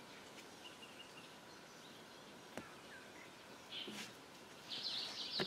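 Quiet riverside ambience with a faint steady hiss, a single click about halfway through, and a high chirping bird trill near the end.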